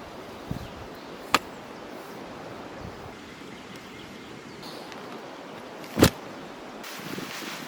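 Steady outdoor background rush with a few sharp clicks or knocks: a light one near the start, a sharper one after about a second, and the loudest about six seconds in.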